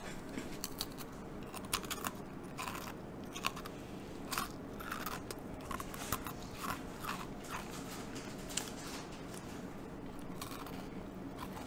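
Chewing of dry Maekcol barley hardtack (geonppang) biscuits: irregular crisp crunches as the biscuit is bitten and ground, thinning out near the end as it turns to a dry paste.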